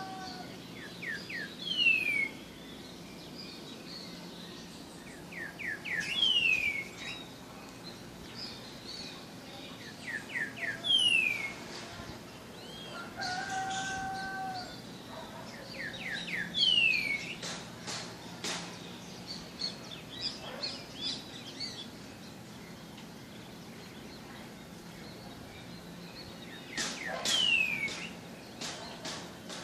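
A songbird singing a repeated short phrase: a few quick notes then a single falling slurred whistle, about every four to five seconds, with fainter calls from other birds between phrases.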